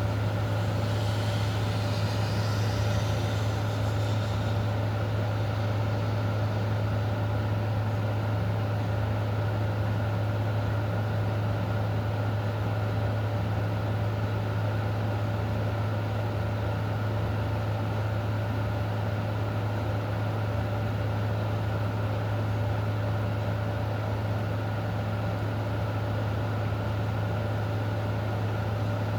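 Steady low mechanical hum holding a constant pitch, with an even hiss underneath.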